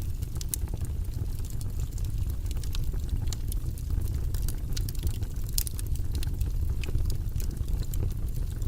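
Wood fire burning in a fireplace: a steady low rumble of flames with irregular small crackles and pops throughout.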